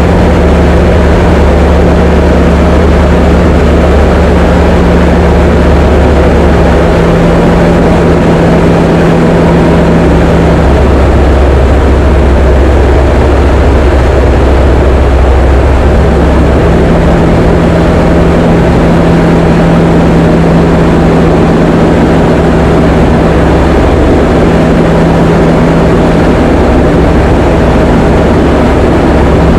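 Diamond DA20 light aircraft's piston engine and propeller droning steadily, with small shifts in the low engine tone a few times.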